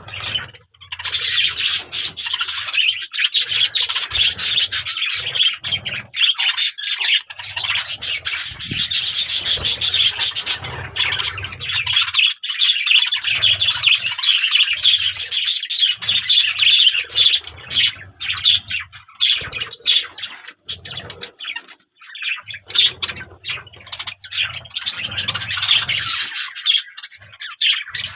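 Small birds chirping and twittering continuously in a dense, rapid chatter, with an intermittent low hum underneath.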